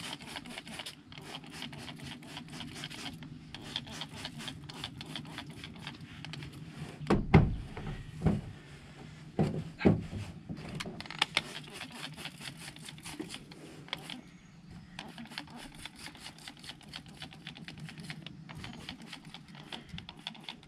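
Stain remover spritzed from a trigger spray bottle onto a T-shirt and rubbed into the fabric by hand: a steady run of quick rubbing and spraying sounds, with a few louder knocks about seven to ten seconds in.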